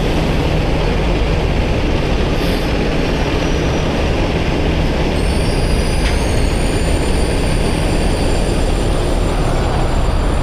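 Heavy diesel engine, plausibly the rotator wrecker's, running steadily with a low rumble. About halfway in, a high whine rises and then holds.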